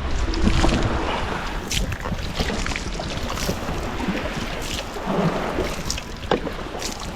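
Small boat rocking at sea: water sloshing and slapping against the hull, wind buffeting the microphone, and scattered sharp knocks and clicks.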